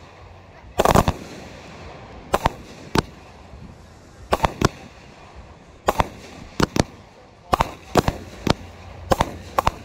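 Aerial fireworks going off: a string of about a dozen sharp bangs at uneven intervals, some in quick pairs, as shells launched from the ground burst overhead.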